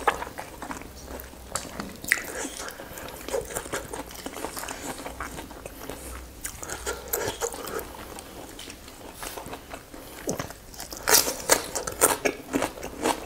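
Close-up eating sounds of roast chicken being bitten and chewed: a run of small crunches and mouth clicks, with a louder cluster of crunching near the end.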